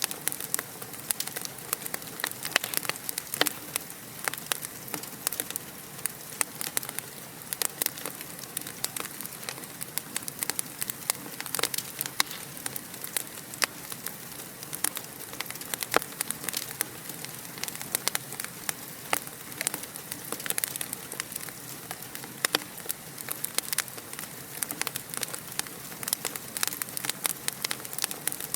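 Fireplace fire crackling steadily: a soft continuous hiss with frequent sharp pops and snaps, some much louder than others.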